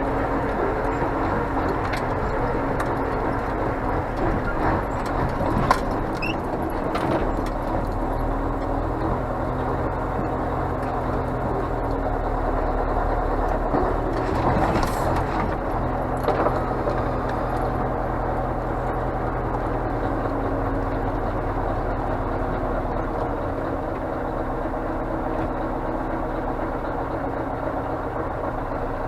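Scania truck's diesel engine running steadily, with a few light clicks and knocks now and then.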